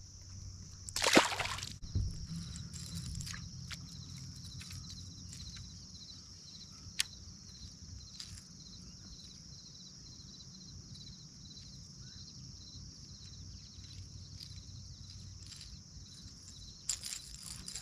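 Steady, high-pitched insect chorus with a regular pulsing trill. A short, loud rushing burst comes about a second in, followed by a thump and scattered light knocks and clicks.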